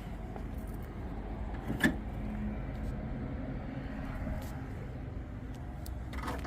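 1938 Buick Special's straight-eight engine running steadily, with one sharp click about two seconds in.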